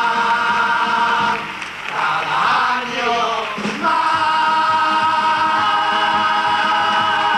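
A carnival comparsa choir singing in close harmony, holding a long chord that breaks off about a second and a half in, then sliding through a short passage and settling on another long held chord from about four seconds in.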